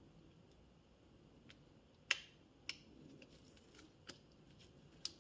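A few light clicks and taps of small metal motor parts being handled and fitted, the sharpest about two seconds in.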